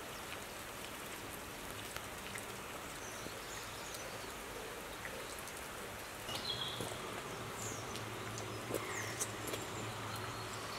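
Steady light rain falling onto the still water of a moat and the plants around it, with a few short, faint high chirps from birds.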